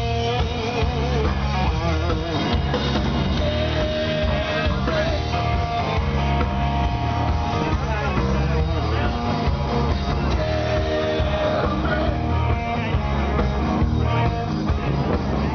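Loud rock music with electric guitar over a steady bass and drum backing.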